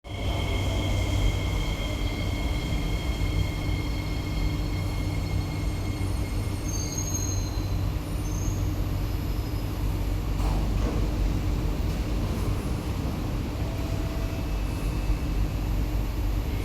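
SMRT C151B metro train, a steady low rumble with two high, steady whining tones that fade out about six seconds in.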